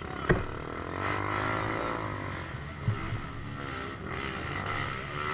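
A motor vehicle engine running with a steady low hum, with a sharp knock just before it and another short knock about three seconds in.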